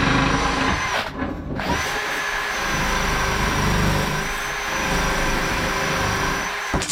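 An electric power tool's motor running steadily at speed with a high whine. It stops briefly about a second in and then spins back up.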